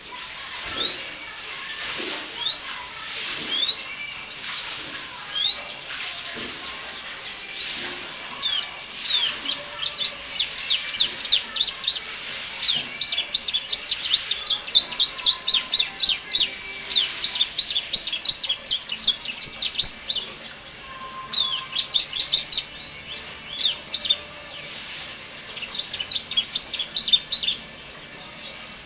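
Canary singing a full song of varied phrases. It starts with separate rising chirps, then breaks into fast runs of repeated high notes, with short pauses about two-thirds of the way in.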